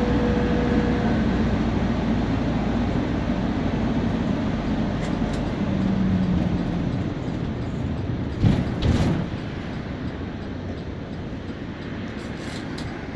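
Temsa Prestij SX midibus on the move: steady engine, drivetrain and road noise. A thin whine fades out in the first second, and the noise eases off in the second half. Two sharp thumps come about two-thirds of the way through.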